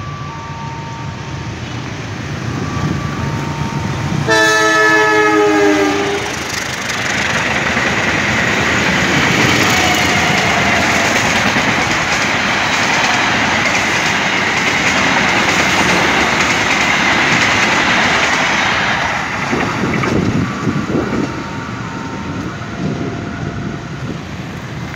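A diesel-hauled passenger train passing close by. About four seconds in, the locomotive sounds its horn for about two seconds. The coaches then rush past with loud wheel noise and a steady high whine, and the noise dies away over the last few seconds.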